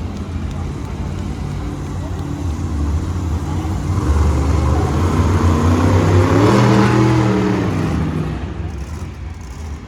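Monster truck engine revving hard, its pitch and loudness rising to a peak about two thirds of the way through, then easing off and fading.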